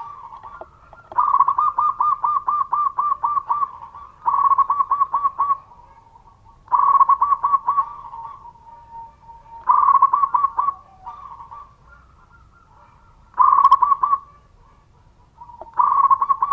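Zebra dove (perkutut) cooing. Six bouts of quick, evenly spaced coo notes, each bout a second or two long, with fainter cooing in the gaps between them.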